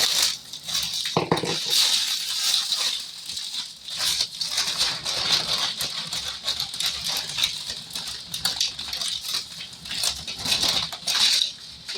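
Crinkling and rustling of a plastic bag of tortilla chips being handled: dense, irregular crackles with no steady rhythm.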